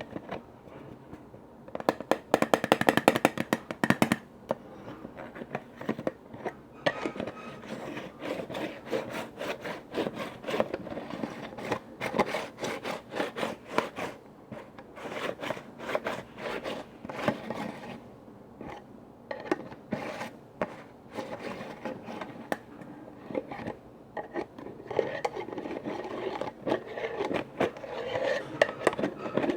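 Quick tapping and scraping on container lids, with a dense, louder run of fast taps about two to four seconds in.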